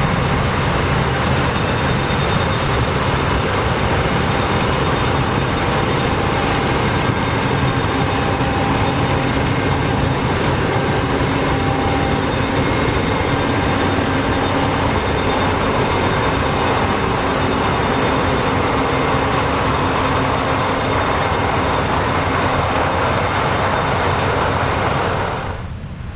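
Combine harvester running steadily while harvesting corn: engine and threshing machinery with faint steady whines. The sound drops away abruptly near the end.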